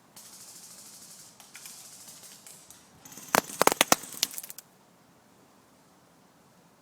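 A few seconds of rustling, then a quick, irregular string of about ten sharp clicks or cracks over a second and a half.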